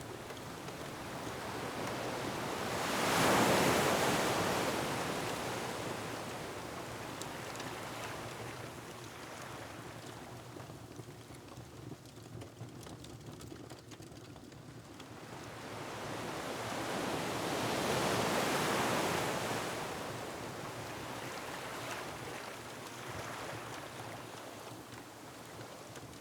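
Ocean waves surging against a rocky shore, two slow swells that build and fade, the first peaking about three seconds in and the second about eighteen seconds in, over a steady wash of wind and water noise with a few faint crackles.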